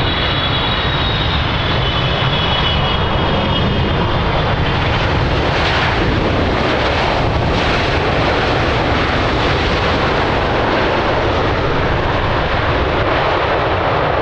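Jet airliner passing close under engine power: a loud, steady rush of engine noise, with a high whine that falls in pitch and fades over the first few seconds.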